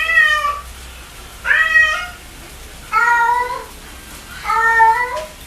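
A cat meowing repeatedly: four loud meows about a second and a half apart, each short and rising slightly at its end.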